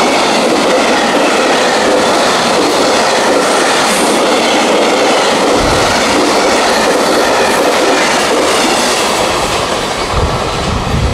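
Freight train rolling past at speed: a steady, loud clatter and rush of steel wheels on rail, with a low thud about halfway through and more low thuds near the end.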